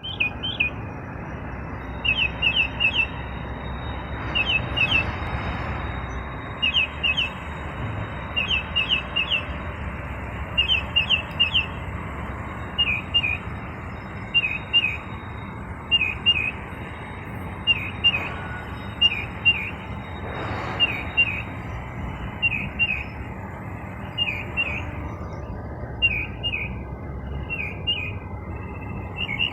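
A small songbird repeating short, high chirps in quick clusters of two to four, about every second and a half, mimicking a car alarm.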